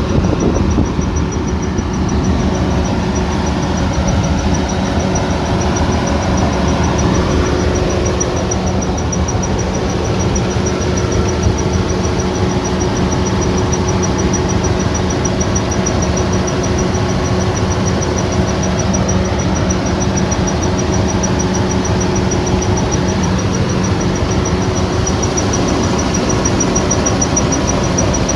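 Kubota combine harvester running steadily under load, a low engine drone mixed with the rattle of its threshing machinery, with a thin high whine over it.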